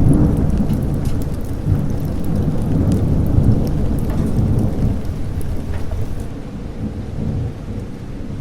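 A long roll of thunder over steady rain. The rumble is loudest right at the start, rolls on for several seconds and eases off over the last few seconds, while the rain hiss carries on throughout.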